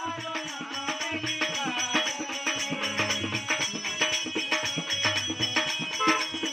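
Indian folk music, an instrumental passage of a song, with steady, fast rhythmic percussion over sustained instrument tones.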